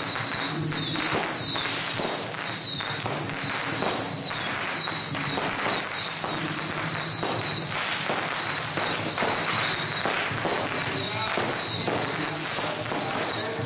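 Strings of firecrackers going off in a dense, continuous crackle of sharp bangs.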